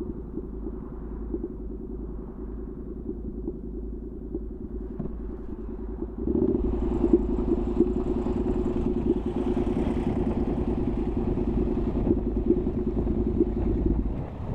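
Honda NC700X parallel-twin engine through a Danmoto XG-1 aftermarket exhaust, running steadily under way with a pulsing exhaust note. About six seconds in it gets clearly louder and brighter as the throttle opens, then drops back just before the end.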